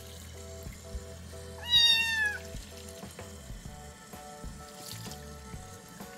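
A wet kitten about a month old gives one loud meow about two seconds in, falling slightly in pitch, while tap water trickles over it in a sink.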